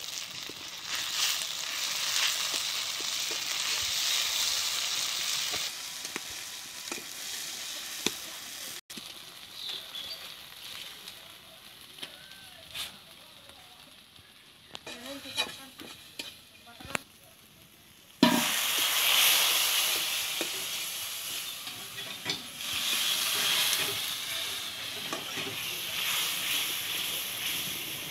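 Sliced onions frying in hot oil in a kadai, sizzling while a flat steel spatula stirs and scrapes the pan. The sizzling drops to a quieter stretch with scraping clicks. About eighteen seconds in, something new hits the hot oil and a sudden loud burst of sizzling follows, easing off gradually.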